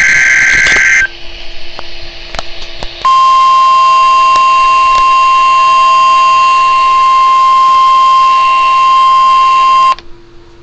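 Weather radio alarm test tones: the end of a burst of SAME digital header data, a warbling two-tone signal, stops about a second in. After a pause of about two seconds, the steady 1050 Hz NOAA Weather Radio warning alarm tone sounds for about seven seconds and cuts off sharply.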